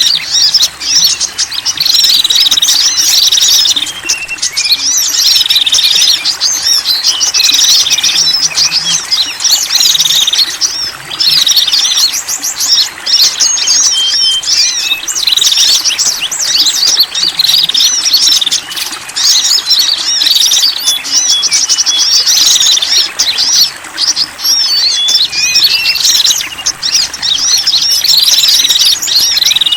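A dense, continuous mix of small songbird chirps and calls from several kinds of bird layered together, with short falling phrases repeating every couple of seconds: a lure recording for attracting small wild birds.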